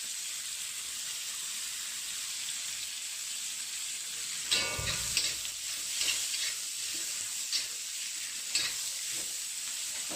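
Wild greens and pickled mustard greens sizzling steadily as they are stir-fried in pork fat with garlic. From about halfway through come several scrapes and knocks of stirring in the pan.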